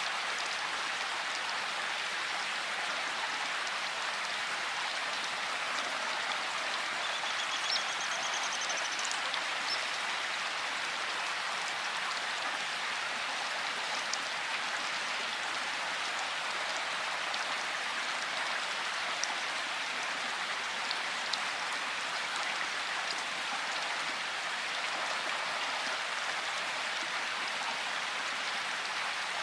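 Steady rain falling: an even hiss of rainfall with scattered louder individual drops.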